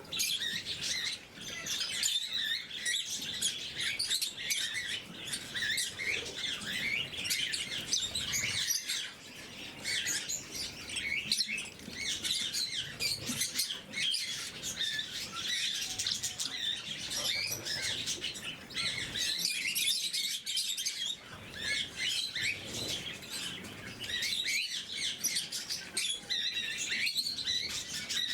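Lovebirds chattering: a dense, unbroken stream of high, shrill chirps and twitters from several birds at once, with scattered short clicks.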